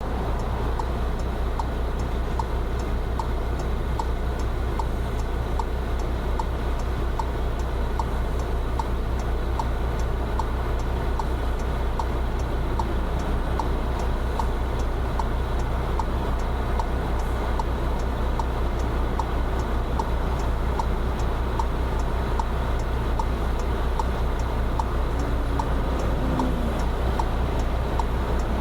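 Steady low rumble with an even, regular ticking.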